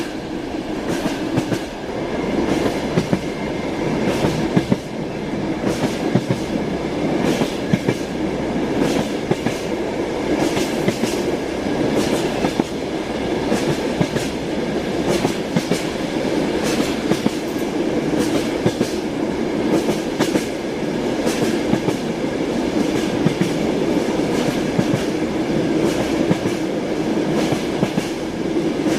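Train wheels clacking over the rail joints, a frequent run of sharp knocks over a steady rolling rumble of a moving railway carriage.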